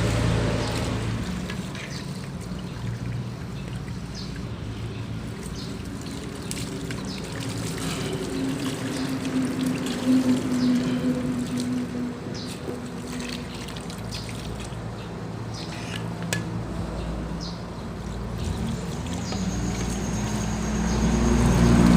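Liquid pouring and dribbling, with scattered small clicks over a low steady hum.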